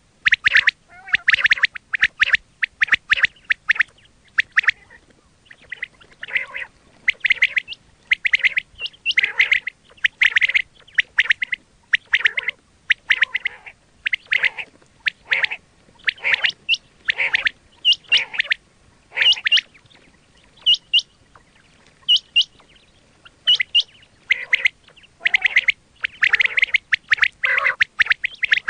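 Quail calling over and over in quick clusters of short, sharp notes, with hardly a pause between clusters.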